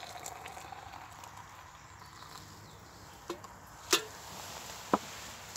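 Three short, sharp knocks over a quiet background in the second half; the last two are the loudest.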